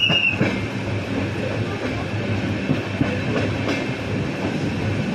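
Steady running noise of a moving passenger train heard from inside the coach, wheels rumbling with scattered clicks over the rails. A high squeal cuts off about half a second in.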